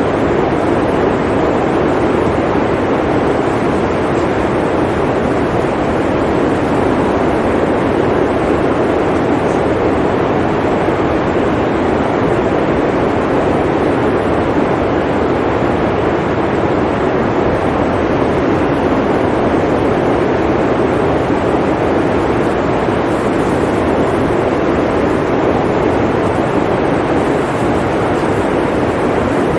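Blizzard wind blowing in a steady, deep rush without distinct gusts.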